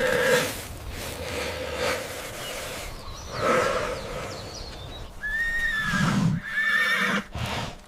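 An animal calling several times in short pitched cries, the clearest a high arching call about five seconds in, followed by a shorter wavering one.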